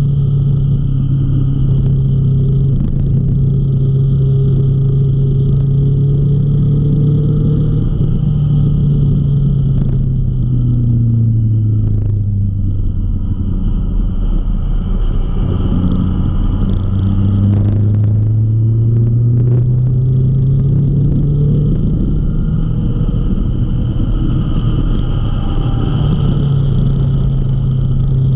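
Motorcycle engine running at a steady road speed, heard from the rider's own bike over a low rumble. Its note sinks as the bike slows from about eight seconds in, then climbs again as it picks up speed around twenty seconds in.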